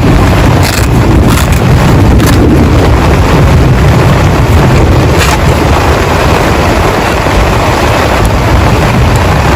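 Heavy rain beating on a tent: a loud, steady rush with a deep low rumble and a few sharper drop hits.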